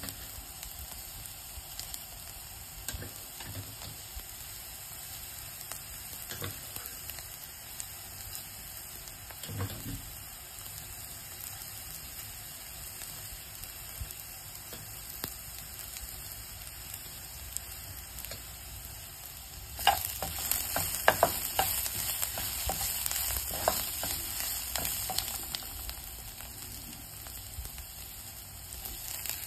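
Onions, curry leaves and dried chillies frying in a little oil in a non-stick wok, the tempering stage of the dish: a steady sizzle that turns louder and crackly about two-thirds of the way through, with a few sharp pops.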